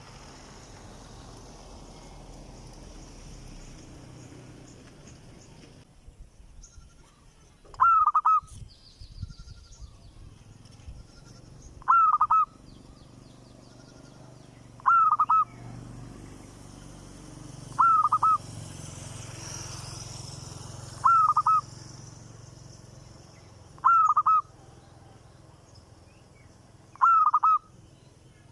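A bird repeating a short, loud call about every three seconds, seven calls in all, starting about eight seconds in.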